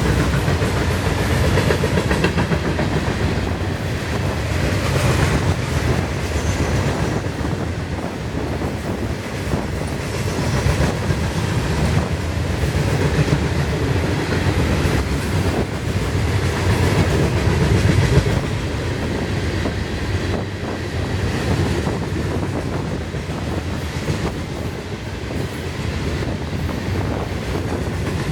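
Florida East Coast Railway freight train's cars rolling past, wheels clattering steadily over the rails.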